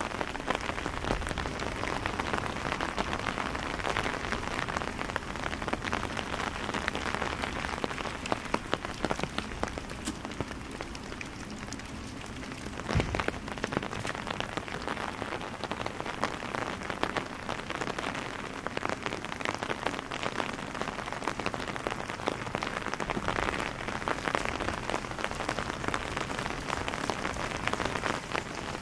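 Steady rain falling on wet cobblestone streets, many close drops ticking in a continuous patter. A single sharp knock stands out about halfway through.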